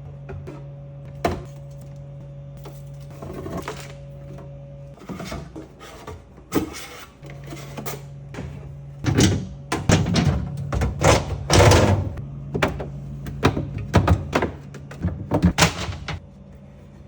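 Knocks, clunks and rattles of items being handled in a refrigerator, thickest in the second half, over a steady low hum that breaks off for about two seconds in the middle.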